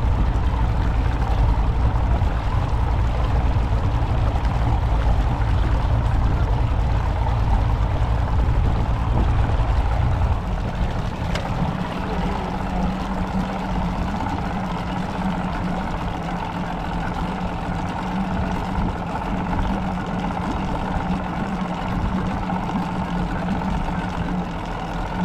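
Motorboat engine running underway with wind and water noise. The deep rumble drops about ten seconds in, and a steadier hum carries on.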